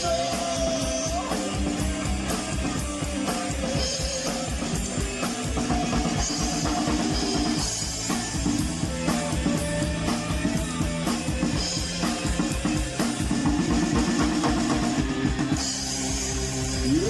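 Live rock band playing an instrumental passage: a steady, driving drum-kit beat under electric guitar and bass.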